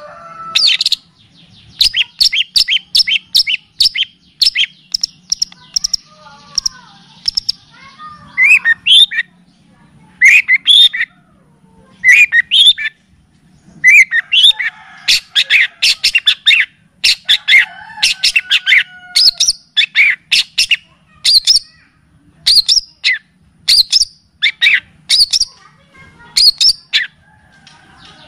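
Recorded songbird song from a tutoring track for long-tailed shrikes: a fast stuttering run of high notes, then bursts of short, sharp chirps and whistles repeated with brief gaps, over a faint low hum.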